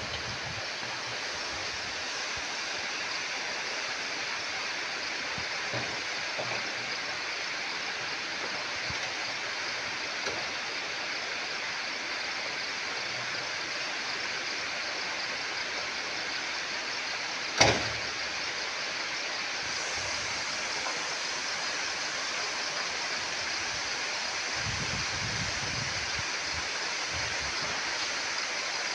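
Steady rush of stream water flowing, with one sharp knock a little past halfway.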